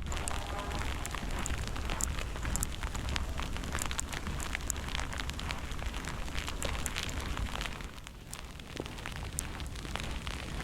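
Snowstorm sounds outdoors: a steady crackling haze with many scattered sharp ticks over a low rumble of wind on the microphone, easing slightly near the end.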